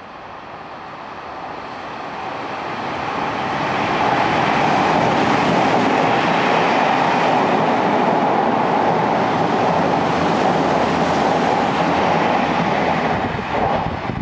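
Odakyu 8000-series electric multiple-unit train, two coupled sets, running through the station without stopping. Its noise grows over the first few seconds as it approaches, holds loud and steady as the cars pass close by, and falls away near the end as the last car goes past.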